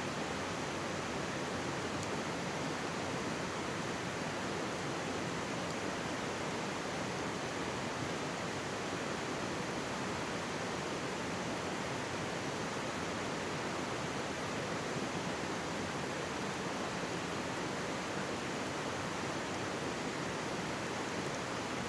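Mountain stream babbling steadily close by, with a faint pop from a wood campfire about two seconds in.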